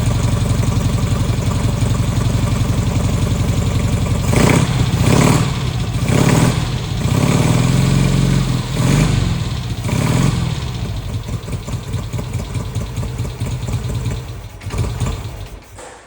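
1956 Gilera B300 Extra's parallel-twin engine idling, then revved in a run of short throttle blips from about four seconds in. It settles back and drops away just before the end.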